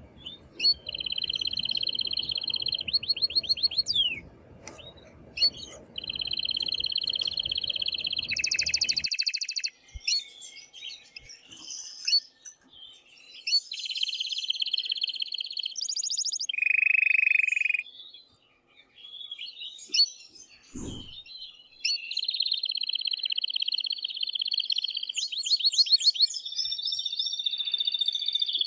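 Male canary singing in long phrases of rapid high trills and rolling repeated notes, broken by short pauses. A low hum lies under the first third and stops suddenly, and a brief low thump comes about two-thirds of the way through.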